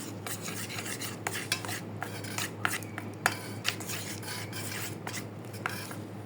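Metal spoon stirring and scraping in a small cup or bowl, with irregular clinks and scrapes: baby-parrot hand-feeding formula being mixed.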